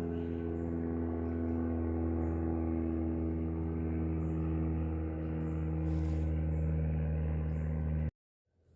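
A steady engine or motor drone holding one fixed pitch, which cuts off abruptly near the end.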